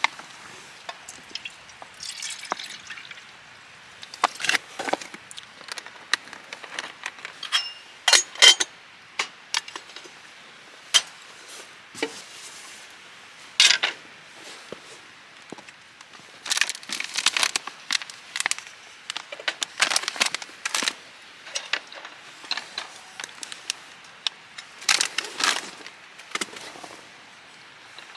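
Firewood burning in a fire pit, crackling with irregular sharp pops, some coming in quick clusters.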